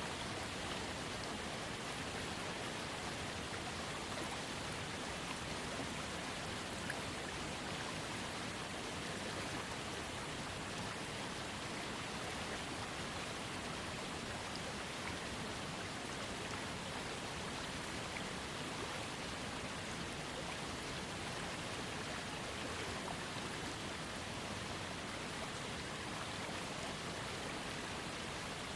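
Small waterfall on a trickling creek: steady splashing and rushing of falling water, even and unchanging throughout.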